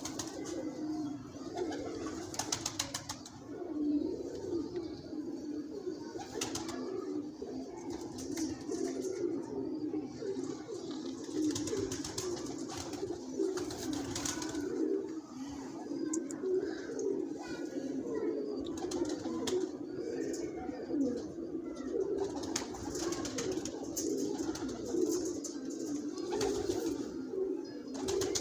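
Domestic pigeons cooing continuously, several birds overlapping in a steady low warble, with a few short sharp noises now and then.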